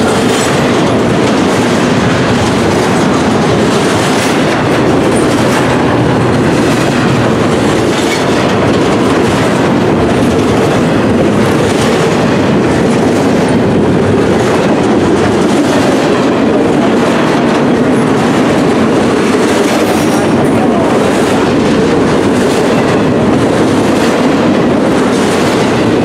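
Double-stack intermodal freight cars rolling past close by: a steady, loud noise of steel wheels on rail, with repeated clicks as the wheels cross rail joints.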